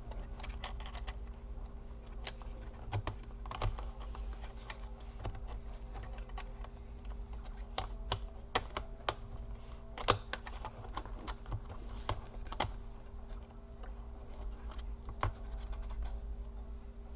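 Irregular light plastic clicks and taps of Dell Latitude E4310 laptop parts being handled and pressed back into place during reassembly, a few louder snaps around the middle.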